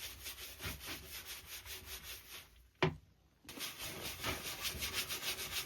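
Quick back-and-forth scrubbing strokes, about five a second, on a jet ski's soapy bilge being cleaned with dish soap. They pause briefly around the middle with one sharp knock, then start again.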